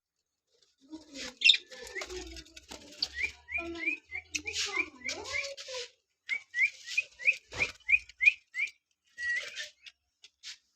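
A colony of budgerigars chirping and warbling together, with runs of short, quick rising chirps at about three a second.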